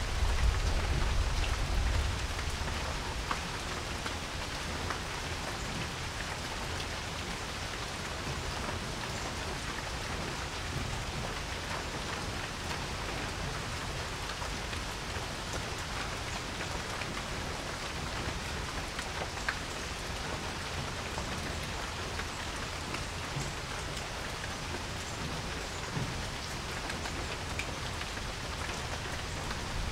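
Steady rain falling on a porch, with scattered single drops ticking through the even hiss. A deep low rumble stands out in the first couple of seconds, then fades into the rain.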